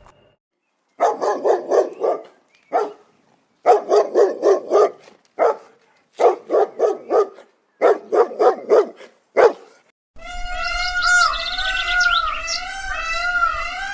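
A dog barking in quick runs of several yaps at a time, with short pauses between the runs. From about ten seconds in, birds chirping replace it.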